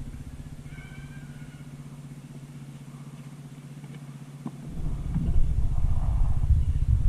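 Dirt bike engine idling with an even low pulse, then revving up and pulling away, much louder, about two-thirds of the way through.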